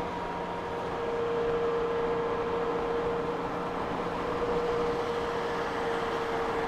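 Honda Gold Wing motorcycle riding at road speed on a wet road: a steady engine hum with one held tone that sinks slightly, under road and wind noise.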